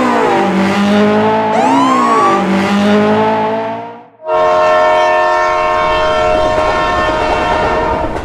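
Dubbed car engine sound effects in two cut pieces: first revving, its pitch dipping and climbing twice, then, after a brief break about four seconds in, a steady high-revving run at constant pitch.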